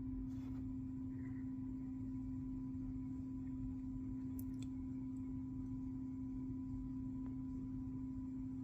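Nibe F750 heat pump's compressor running: a steady low-pitched hum over a low rumble, with a couple of faint ticks about four and a half seconds in.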